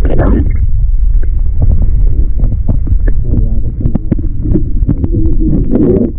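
Wind buffeting a chest-mounted camera's microphone: a loud, steady low rumble, with scattered knocks and rustling on top.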